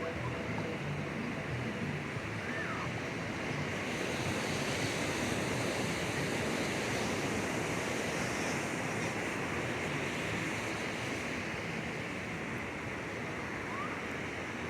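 Ocean surf washing onto a beach, a steady rush of breaking waves that swells a little louder a few seconds in and eases off again.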